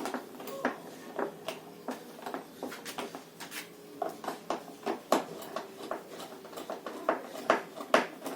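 Irregular knocks and clinks of hand tools and metal parts being handled while a top-load washing machine's gearbox mechanism is worked on, one or two sharp hits a second, over a faint steady hum.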